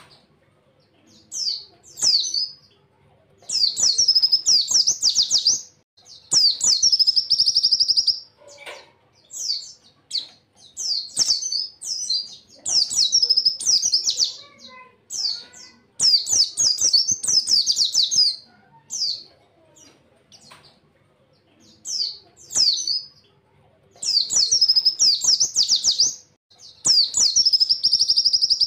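Pleci (white-eye) singing in loud bursts of high, fast trilled phrases lasting one to two seconds, repeated every few seconds.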